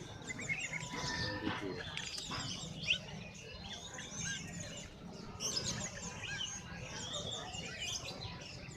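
Many caged songbirds chirping and trilling at once, their calls overlapping in a dense chorus, with a sharp click about three seconds in.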